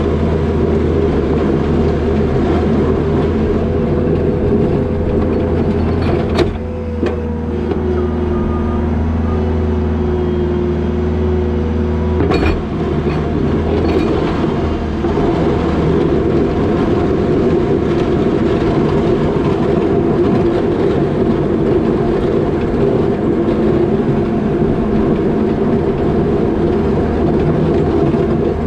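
New Holland L220 skid steer's diesel engine and hydraulics running steadily under load, with a constant low hum and whine. Two short knocks come through, about six and about twelve seconds in.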